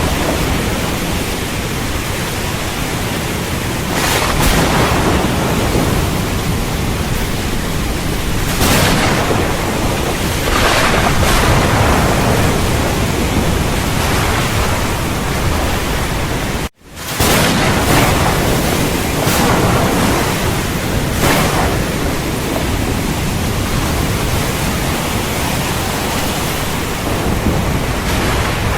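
Heavy, steady rain with a thunderstorm, with several louder swells rising out of the downpour. The sound drops out for an instant about halfway through, then the rain resumes.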